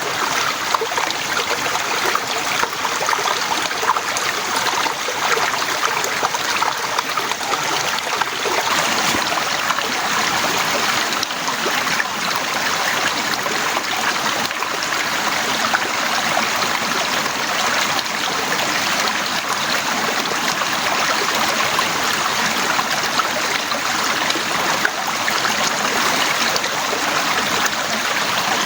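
Heavy rain falling steadily, a dense even hiss with fine scattered drop ticks.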